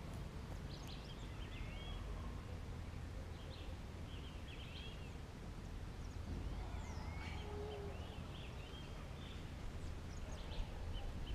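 Small birds chirping and calling now and then, short high chirps and quick swooping notes, over a steady low background rumble.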